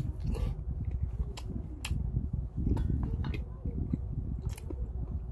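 A person chewing a bite of tteokgalbi, a Korean grilled minced-meat patty, close to the microphone, with irregular wet mouth clicks and smacks.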